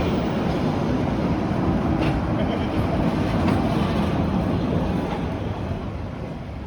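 A train running with a steady rumble, fading away over the last second or two.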